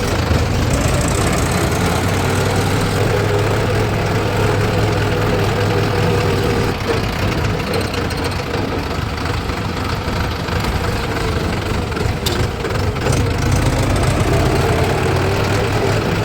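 Heavy diesel engine running steadily, a continuous drone with no change in pace.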